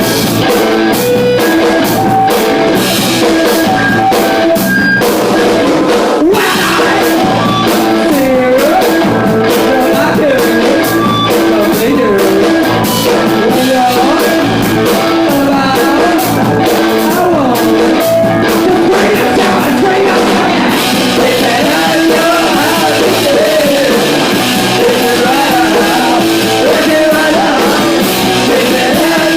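A rock band playing live, with guitar, drum kit and a singing voice, loud and unbroken.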